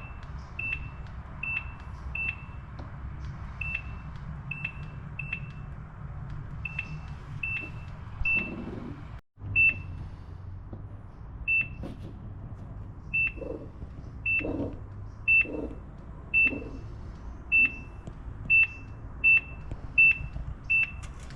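Digital templating machine beeping as each measuring point is recorded: short, identical high beeps at uneven spacing, roughly one every half second to second, over a low hum, with a short break about nine seconds in.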